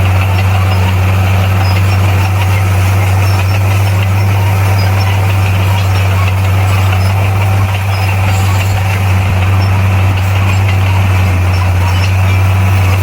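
Heavy diesel engine of a bulldozer running steadily at constant speed, a deep even drone with no change in pitch.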